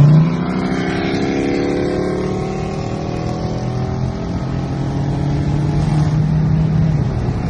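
Car engine under hard acceleration, its pitch climbing steadily for about four seconds, then holding a steadier note.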